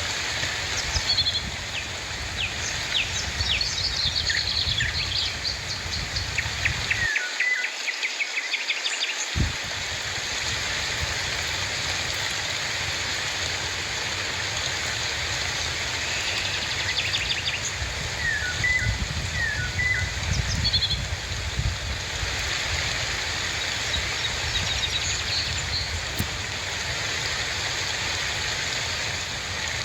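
Steady rain hissing, with small birds chirping in quick trills that come in several clusters, busiest in the first several seconds.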